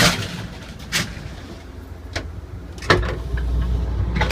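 Powered sliding end door between passenger railcars opening after its push plate is pressed, with a rush of air at the start and several sharp clicks and knocks. About three seconds in a steady low rumble sets in as the gangway between the cars is crossed.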